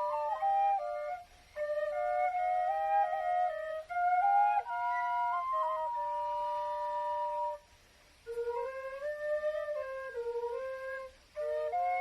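Two B♭ quenas, one of grenadilla wood and one of Honduras rosewood, playing a slow melody together in two parts. The tone breaks off briefly between phrases, about a second in, for about half a second near the middle, and again shortly before the end.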